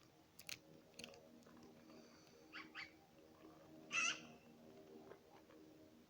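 A few faint, short bird calls and small clicks, the loudest call about four seconds in, over a faint low hum.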